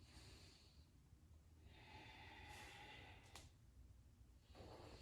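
Three slow, faint breaths drawn through the throat, in ujjayi breathing, the middle one the longest and loudest. A small click comes about three seconds in.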